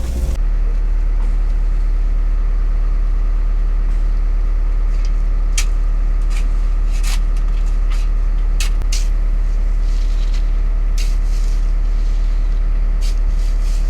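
Excavator diesel engine running steadily with a strong low drone, with scattered sharp clicks and ticks over it.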